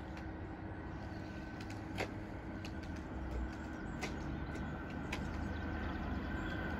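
Distant train approaching along the line: a low rumble slowly building, with a few sharp clicks.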